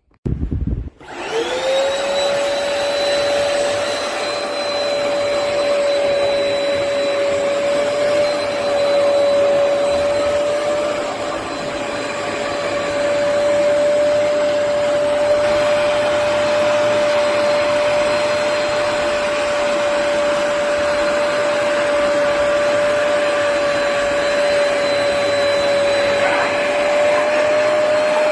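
Hoover PowerDash Pet+ compact carpet cleaner switched on about a second in: its motor spins up with a quickly rising whine, then runs steadily with a high whine over rushing air.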